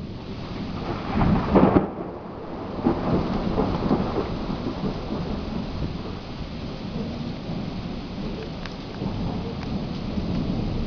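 Thunder from a thunderstorm in heavy rain: a loud crash of thunder about a second and a half in rolls on for a few seconds and then fades into the steady hiss of rain.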